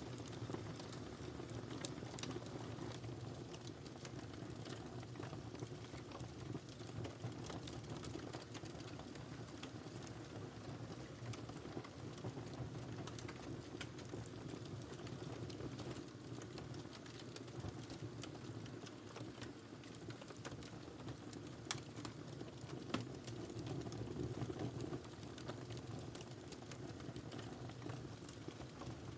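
Wood fire crackling in a fireplace: a steady low rumble of flames with scattered sharp pops and snaps, two louder pops about three-quarters of the way through.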